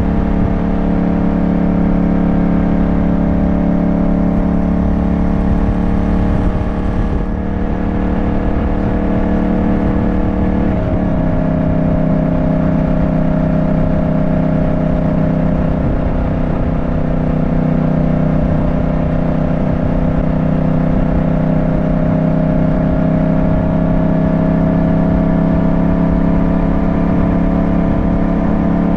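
Yamaha motorcycle engine running steadily under way, with low wind rumble on the microphone. About eleven seconds in its pitch steps down, then climbs slowly again.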